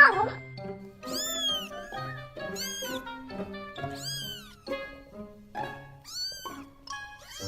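Domestic cat meowing about five times in short, high-pitched calls that rise and fall in pitch, over background music with low held notes.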